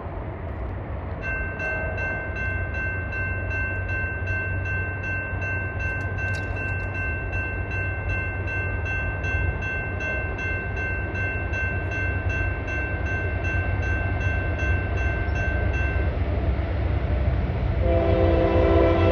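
Low rumble of an approaching freight train, with a rapid, repeating high ringing of about three strikes a second that stops about sixteen seconds in. Near the end, the lead locomotive's multi-note air horn starts sounding.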